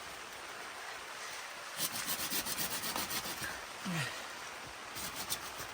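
Runs of quick, rasping scrape strokes, about six a second, twice, over a steady hiss of rain; a brief falling tone sounds between them.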